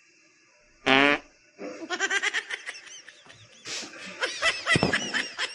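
A single short fart sound about a second in, then people laughing in short bursts.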